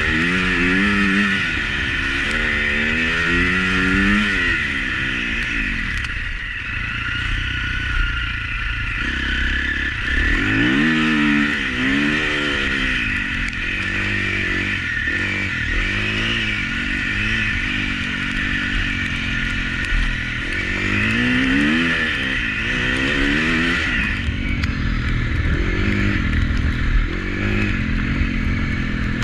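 Husqvarna FC350 four-stroke single-cylinder motocross engine, revving up and falling back repeatedly as the bike is ridden round a track, heard on board with a steady high hiss over it.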